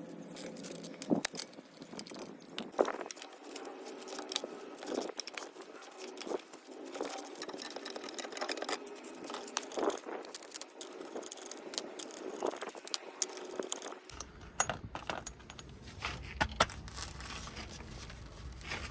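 Irregular clinks, clicks and rattles of small metal tools and parts being handled, with occasional scrapes. The background changes abruptly near the end, where a low hum comes in.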